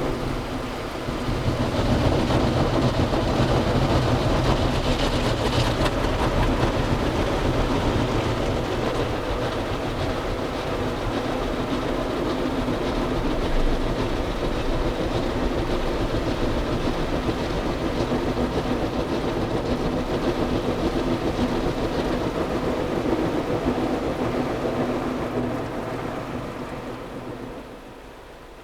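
Automatic car wash machine running over a car: a steady mechanical rumble with a rush of spraying water, fading away over the last few seconds.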